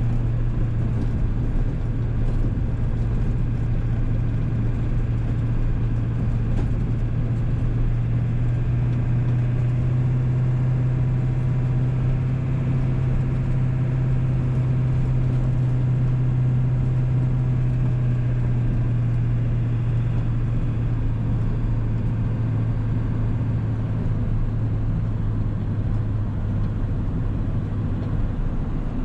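1997 7.3-litre Powerstroke turbo-diesel V8 running while driving, a steady low drone that rises a little in pitch through the middle and settles back lower later on.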